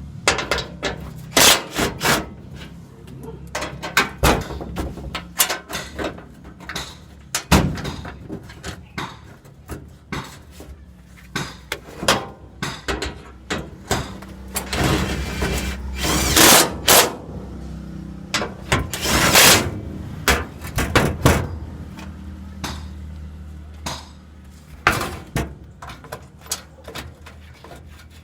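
Irregular metal clanks and knocks of hand tools and parts during work on a truck transmission, some loud and sharp, over a steady low hum.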